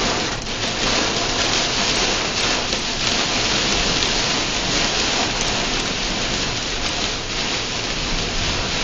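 Very heavy rain beating on a car's roof and windshield, heard from inside the cabin as a dense, steady hiss.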